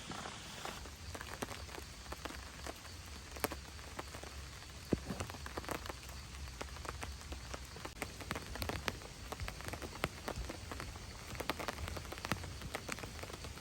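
Rain falling on a camping shelter: a steady hiss with many irregular sharp drop taps on the shelter.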